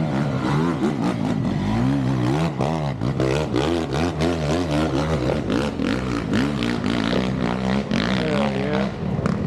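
Dirt bike engine revving up and down repeatedly while riding rough ground, with knocks and clatter throughout.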